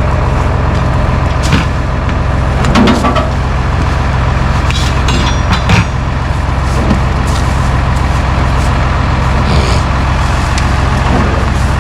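Truck engine running steadily at idle, with a few short knocks and clicks over it.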